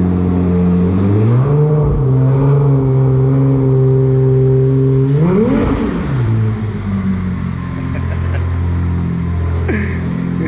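Ferrari 296 GTB's twin-turbo V6 idling just after start-up. The idle steps up about a second in, the engine gets one quick rev that rises and falls about five seconds in, and it then settles back to a lower idle.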